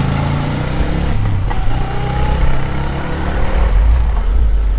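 A motor engine running steadily, its pitch shifting a little.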